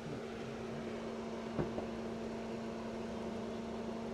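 Maruti Suzuki Fronx's 1.2-litre naturally aspirated four-cylinder petrol engine idling with the bonnet open: a steady, smooth hum with one faint click about a second and a half in.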